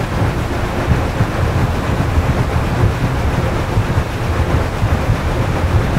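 Wind buffeting the microphone out of the window of a moving railway carriage, over the steady rumble of the train running along the track.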